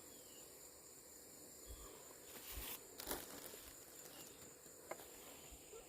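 Near silence with a few faint rustles and light ticks: Vaseline-coated cotton balls being pulled apart and spread out by hand.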